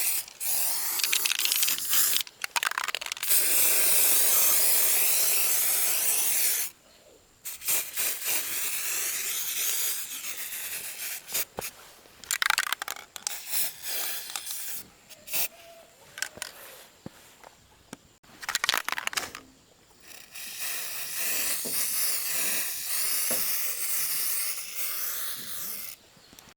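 A loud hissing spray that comes on and cuts off in bursts of a few seconds, with short clicks in the pauses between.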